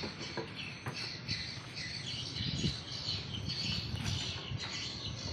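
Small birds chirping, over a low rumble, with a couple of faint knocks.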